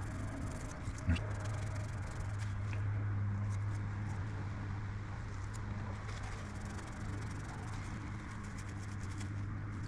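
Brass pieces being scrubbed by hand with Scotch-Brite and Brasso polish, a steady rubbing noise over a low steady hum, with one sharp knock about a second in.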